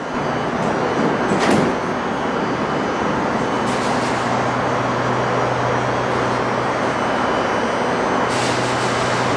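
Hitachi-built electric train running, heard from inside the carriage: a steady rumble with a low motor hum, and three short hisses of higher noise, at about a second and a half, four seconds and eight and a half seconds in.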